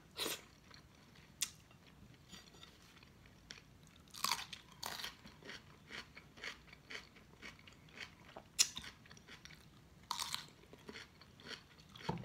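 Close-up mouth sounds of chewing, broken by several sharp crunches spaced a second or more apart as bites are taken from a raw Persian cucumber.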